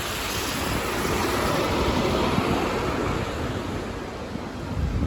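City bus running past, its engine and tyre noise swelling about two seconds in and fading again, with wind rumbling on the microphone.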